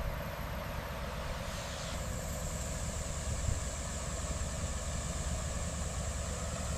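Heavy road-construction machinery running steadily, a continuous low engine drone with a hiss above it.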